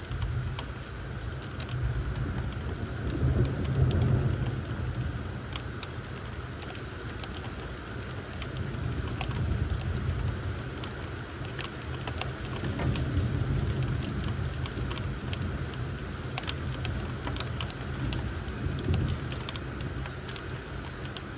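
Thunderstorm: steady rain with sharp ticks of drops, and low thunder rumbles that swell and fade several times, the loudest about four seconds in.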